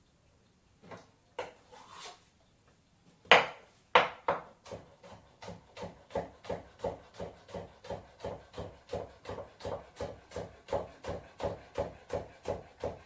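Kitchen knife chopping salad vegetables on a wooden cutting board: a few scattered knocks, then a louder knock about three seconds in and a steady run of chops at about three a second.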